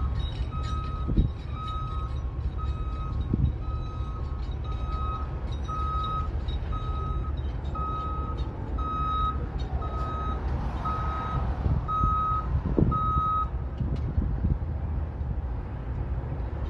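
Reversing alarm on heavy equipment beeping about once a second, then stopping near the end, over the low rumble of running engines with a few low knocks.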